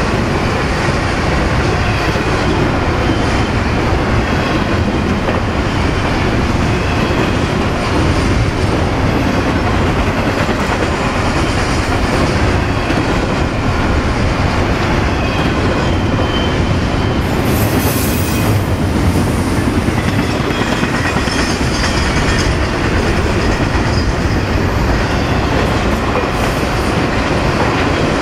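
Double-stack intermodal well cars rolling past: a steady, loud rumble and clatter of steel wheels on the rails, with faint wheel squeal. A brief hiss comes about two-thirds of the way through.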